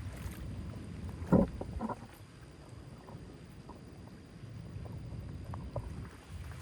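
Steady low rush of running water, with a short loud sound about a second and a half in and a smaller one just after.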